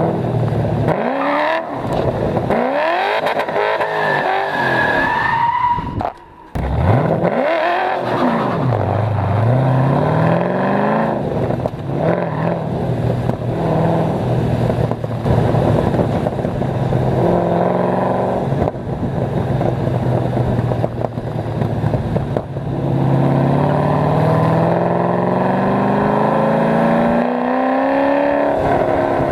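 Cammed LS1 V8 of an HSV VY Clubsport R8 with long-tube headers and a 3-inch X-pipe exhaust, driven hard: revs climb and fall back several times, the sound cuts out briefly about six seconds in, then it runs steadier before a long rising pull near the end.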